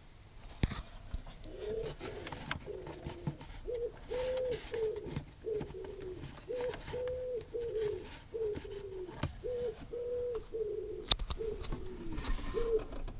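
A pigeon cooing, a long run of short, even coos that each dip in pitch at the end, with a few sharp clicks and knocks between them.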